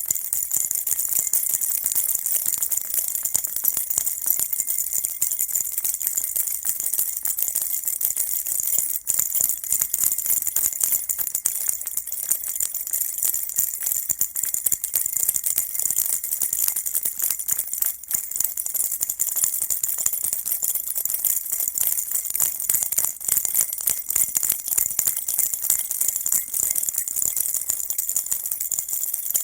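Baby rattle shaken continuously, a dense, fast, even jingling clatter with no pauses.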